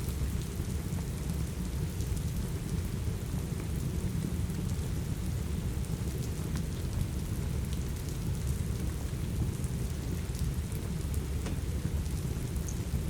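Steady rain mixed with a crackling wood fire: a continuous deep rumble under the hiss, with scattered faint crackles.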